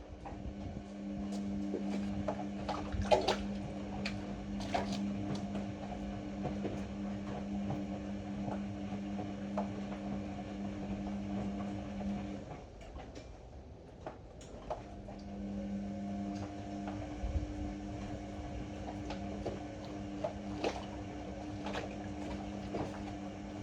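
Ariston AML125 washer-dryer running a wash: the drum motor hums steadily as the drum turns, with water sloshing and light knocks. The motor stops about halfway through for a couple of seconds, then starts again.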